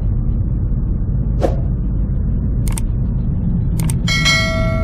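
Car driving, heard from inside the cabin: a steady low rumble of engine and tyres on the road, with a few sharp clicks and a short ringing tone near the end.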